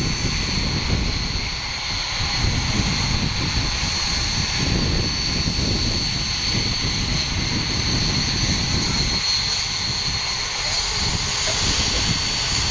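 BAE Hawk jets' Adour turbofan engines, a steady jet noise with a high whine running through it.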